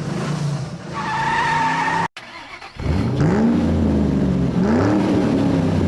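Car tyres squealing briefly, then after an abrupt cut a car engine revving up and down about three times.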